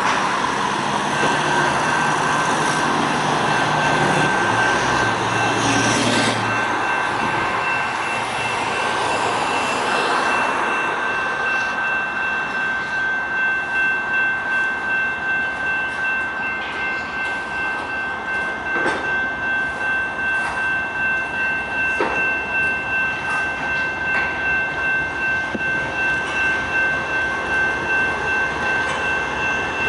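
Freight train passing: the diesel locomotives' engines run low for the first several seconds, then the cars roll by with a regular rhythm of wheel beats over the rail joints. A steady high wheel squeal runs underneath.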